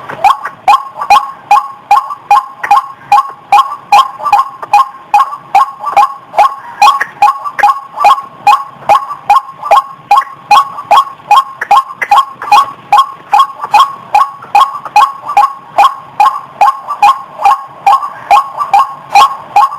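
White-breasted waterhen (ruak-ruak) calling: a steady, unbroken run of loud repeated notes, about three a second.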